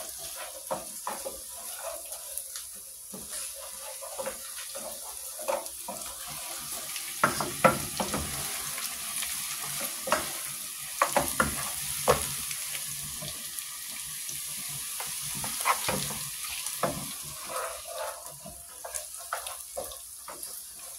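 Food sizzling in hot oil in a cooking pot, a steady hiss, with a spoon knocking and scraping against the pot as the contents are stirred. The sharpest knocks come through the middle.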